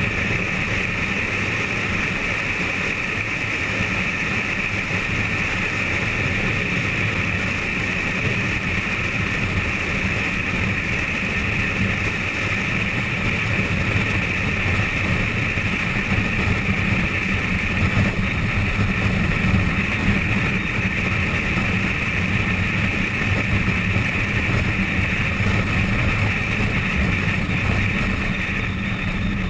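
Steady road and engine noise of a moving vehicle heard from inside the cabin, with some wind noise.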